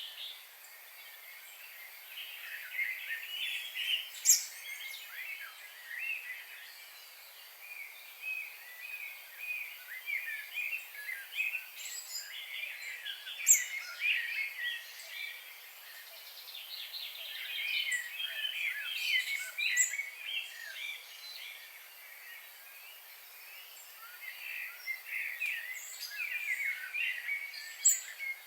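A chorus of several birds singing and calling at once: a busy, overlapping stream of chirps and twittering warbles. A few short, sharp high-pitched notes stand out above it, the loudest about four seconds in, near the middle and near the end.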